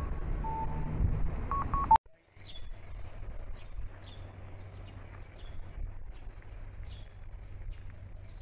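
Street traffic noise with a few short electronic beeps. After an abrupt cut about two seconds in come scattered short bird chirps over a low steady hum.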